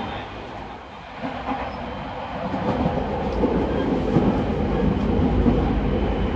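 JR East 209 series electric train running on the line: wheels rumbling on the rails with some clickety-clack over rail joints. The running noise drops about a second in, then builds up again.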